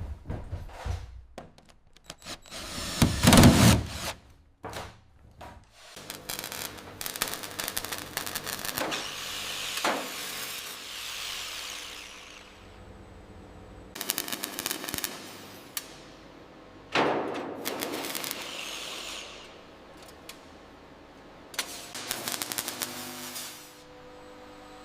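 Intermittent workshop tool noise: several short power-tool runs with rattling clicks and clanks between them. The loudest burst comes about three seconds in.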